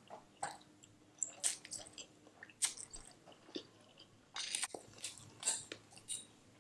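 Close-up mouth sounds of a person chewing a mouthful of spicy noodles: irregular wet smacks and clicks, busier just past the middle.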